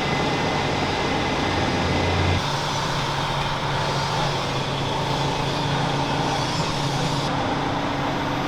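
Steady machine noise, a low hum under a wide hiss, with its tone changing abruptly about two and a half seconds in and again near the end.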